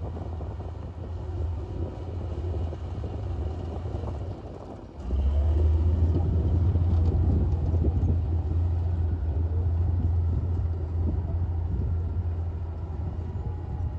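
Diesel engine of a Komatsu D58P bulldozer running with a steady low rumble; it dips briefly about five seconds in, then comes back louder and holds there.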